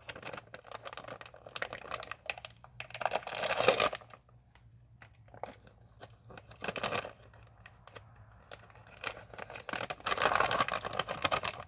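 Plastic snack pouch crinkling as it is handled and opened, in irregular rustles and crackles with louder bursts about a third of the way in and again near the end.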